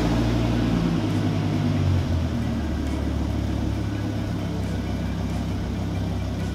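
Dodge Viper RT/10's 8.0-litre V10 idling just after starting. Its fast idle eases down about two seconds in, then it runs steadily.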